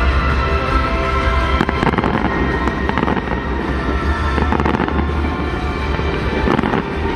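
Fireworks bursting and crackling over music, with a cluster of sharp cracks about one and a half to two seconds in and more scattered through the rest.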